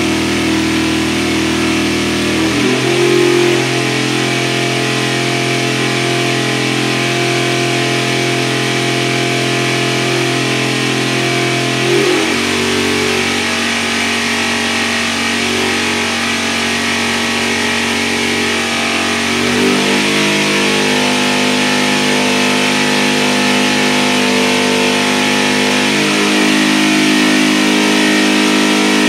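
Katech Hot Rod LSX 427 V8 crate engine running on an engine dyno, held at steady speeds and shifting to a new speed four times, every seven to ten seconds.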